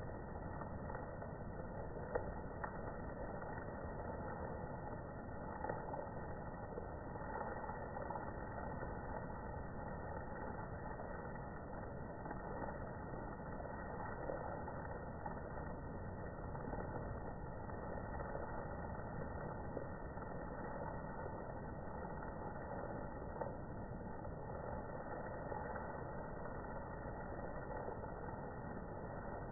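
Steady rain of big drops falling, a continuous hiss with a few louder single drop hits standing out now and then.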